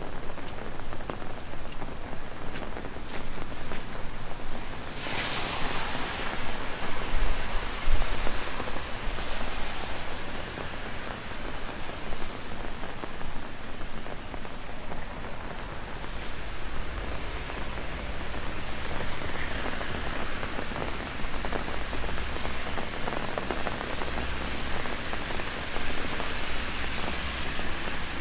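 Heavy rain falling on an open umbrella overhead: a steady hiss of rain with drops striking the canopy, growing louder about five seconds in.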